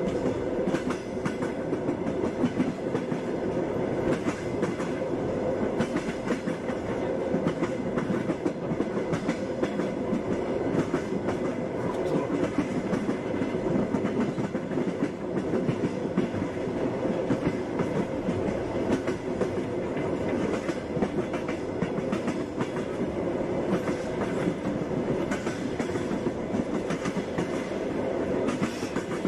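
Passenger train wheels clattering over the rail joints, a steady rumble of the moving carriage with frequent irregular clicks and knocks.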